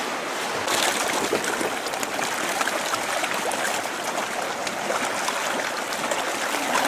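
Running water of a cave stream, a steady rushing and trickling that grows a little louder just under a second in.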